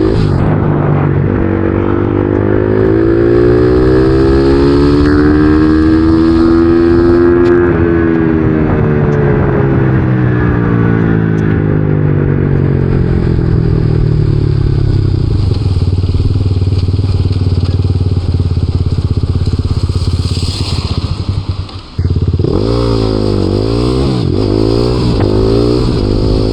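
Supermoto motorcycle engine under way: the revs climb smoothly for several seconds, ease back down and hold steady. About three-quarters in the sound drops sharply for a moment, then comes back with quick up-and-down throttle changes.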